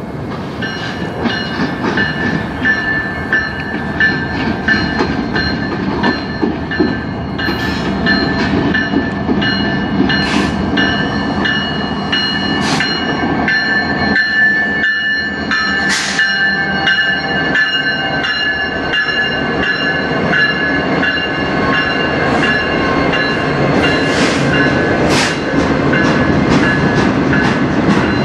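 Diesel freight train approaching and passing close by: the lead CN locomotives rumble by, then autorack cars roll past with clattering wheels, growing louder as it nears. Steady high ringing tones sound over the train for most of the pass, with scattered sharp clicks.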